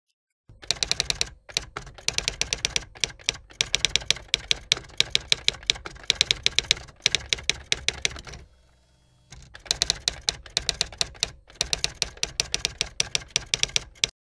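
Rapid, sharp clicking in long fast runs, stopping for about a second a little past halfway and briefly again later.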